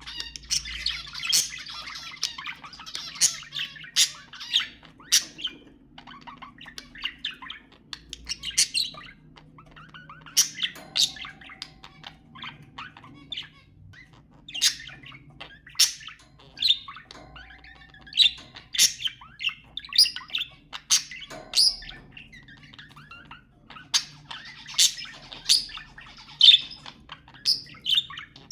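Budgerigars chattering: a dense run of sharp, high chirps and squawks mixed with warbling, several calls a second with brief lulls.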